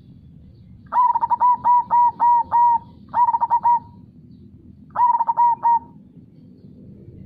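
Zebra dove (perkutut) cooing in three phrases of rapid notes, the first and longest about a second in, with shorter ones near three and five seconds, over a steady low rush of flowing river water.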